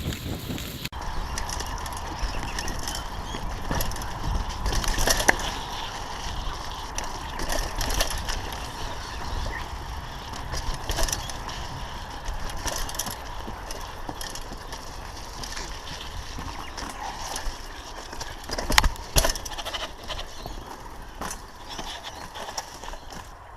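Mountain bike riding over a rough trail: steady tyre noise with the chain and frame rattling over bumps, and two hard knocks close together near the end.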